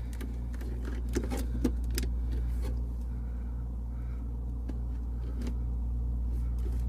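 Steady low machine hum in a walk-in freezer, with scattered light clicks and small metallic rattles from hands working a clamp meter around the defrost heater wiring.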